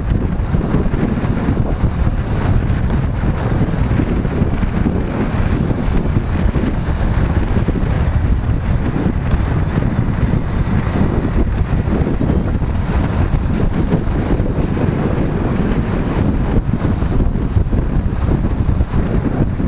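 Steady wind noise buffeting the microphone of a moving motorcycle, with the motorcycle's running and road noise underneath.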